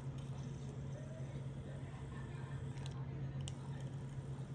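Steady low electrical hum with a few faint, sharp clicks about three seconds in.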